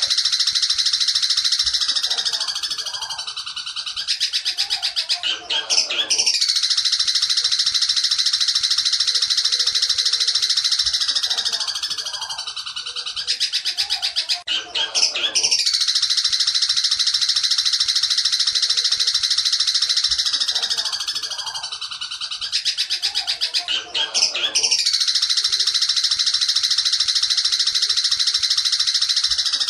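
Long-tailed shrike (cendet) singing the rapid 'petir' style of song, used as a masteran tutor recording. Long, dense, high trilling runs are broken about every nine seconds by a short spell of lower, choppier notes.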